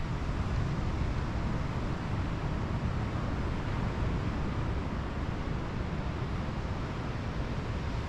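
Steady ocean surf washing on the beach, mixed with wind buffeting the microphone as a continuous low rumble.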